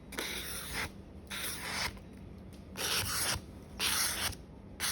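Victorinox paring knife blade drawn across a sharpening whetstone: about four separate scraping strokes, roughly one a second, working the edge fine to remove the burr.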